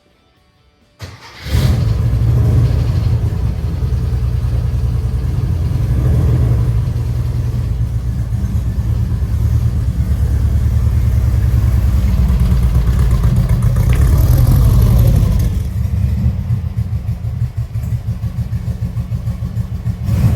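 Air-cooled VW flat-four, a 1904cc stroker with a high-lift C95 cam, cranked on the starter about a second in and catching at once. It then runs loud and steady, rising a little in level past the middle, then drops back to a quieter, pulsing run near the end.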